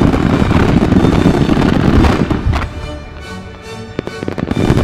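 A dense barrage of firework shells bursting and crackling with music playing. About two seconds in the barrage drops away, leaving the music and a few scattered bangs, then a dense barrage starts again near the end.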